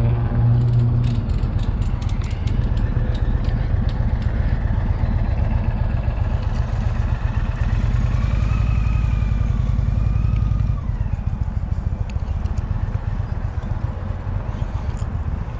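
A motorcycle engine running with a steady low rumble, which drops away about 11 seconds in. A few light clicks come early on.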